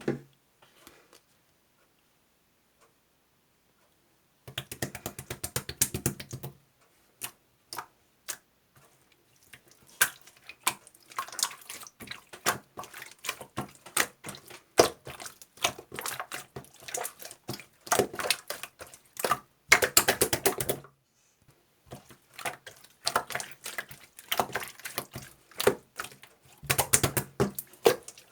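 Runs of rapid, irregular small clicks and taps, with short pauses between the runs.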